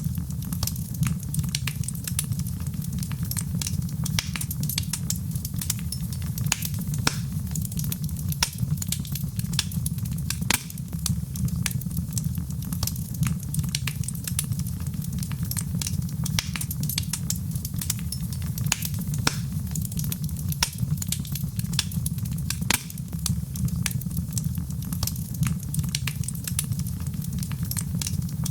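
Fire burning in a fireplace, crackling with frequent sharp, irregular pops over a steady low rumble.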